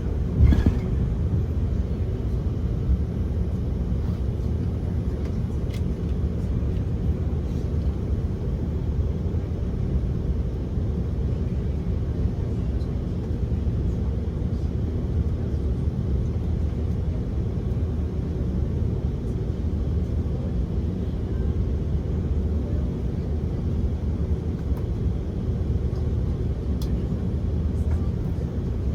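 Steady low rumble in the cabin of an Airbus A330-300 taxiing after landing. A single thump comes about half a second in.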